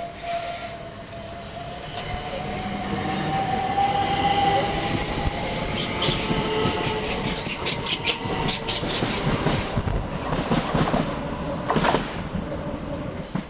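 Electric passenger train passing through the station: a steady whine that rises a little and then falls, with a rapid clatter of wheels over rail joints in the middle, loudest midway and then easing off.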